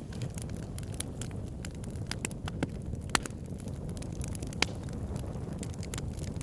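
Wood fire crackling: a steady low rumble of burning with scattered sharp pops, and two louder snaps about three and four and a half seconds in.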